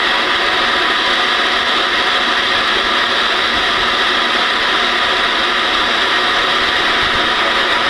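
Steady static from a Ranger RHF 618 ten-meter radio's receiver, an even hiss of band noise from its speaker with no signal coming through.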